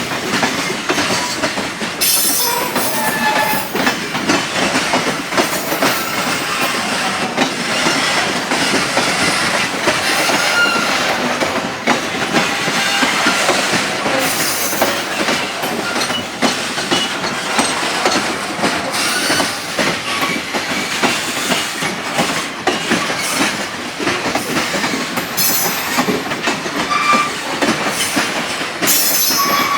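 Freight train wagons rolling past: a steady clatter of wheels knocking over rail joints, with brief metallic squeals from wheel on rail now and then.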